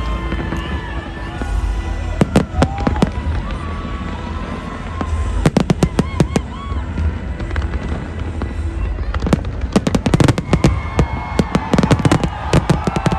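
Fireworks going off, with sharp crackling bangs coming in several rapid clusters over a steady low rumble.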